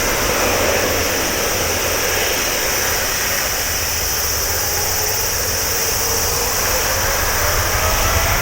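Jet engine noise from a Boeing 777-200ER's twin GE90 turbofans during takeoff: a steady rumble and hiss, with a whine that slowly rises in pitch and grows a little louder over the last few seconds.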